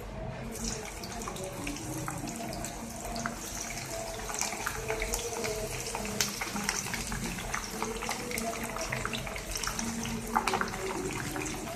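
Chopped capsicum frying in hot oil in a pan: a steady sizzle with many small crackles and pops, growing stronger about half a second in.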